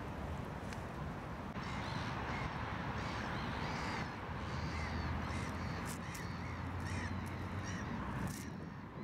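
Many harsh bird calls in quick succession, starting about a second and a half in, over a steady low hum.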